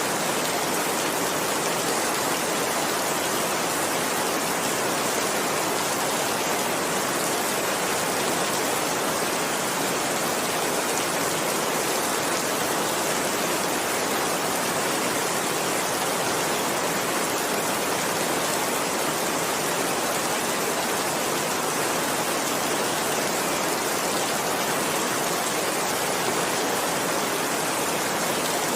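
Heavy rain falling steadily, an even hiss without breaks or changes in strength.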